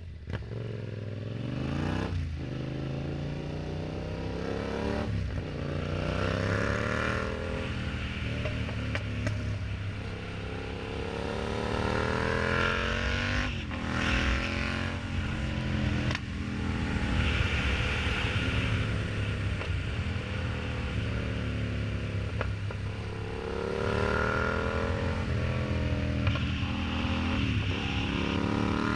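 Yamaha MT-07's 689 cc parallel-twin engine through an aftermarket exhaust, under way and accelerating hard: the revs climb again and again and drop sharply at each upshift, with about half a dozen gear changes.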